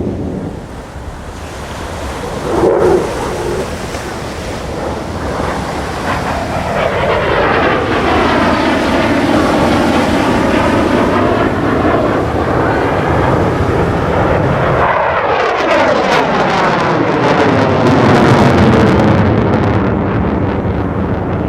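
F-16 Fighting Falcon fighter jets of the USAF Thunderbirds flying past, a loud jet roar that swells and sweeps as each pass goes by, with a second pass coming in sharply about three-quarters of the way through. Wind buffets the microphone.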